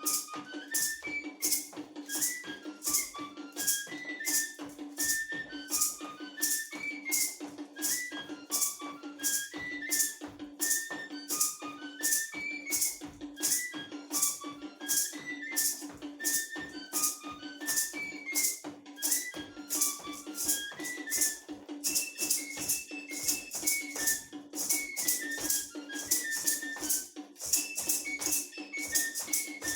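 Music for a traditional bird dance: a high, whistle-like melody of short notes over a steady rattle beat of about two strokes a second, with a low steady tone beneath.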